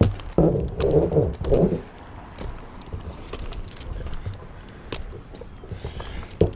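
Metal climbing and rigging hardware jingling and clinking in a series of scattered light clicks. There are a few heavier, muffled knocks in the first two seconds.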